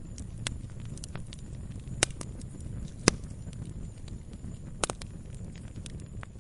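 Campfire burning, with irregular sharp pops and crackles over a low steady rumble of the flames. The loudest pops come about two, three and five seconds in.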